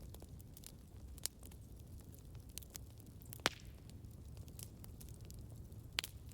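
Campfire burning with a low, steady rumble and scattered sharp crackles and pops, the loudest about a second in, halfway through and near the end.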